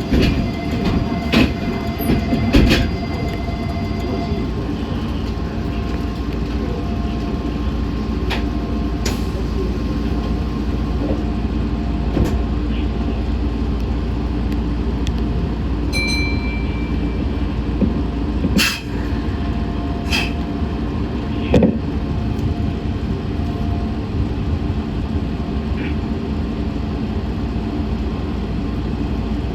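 Meitetsu 6500 series electric train running between stations, heard from inside the car: a steady rumble with occasional sharp clicks and knocks.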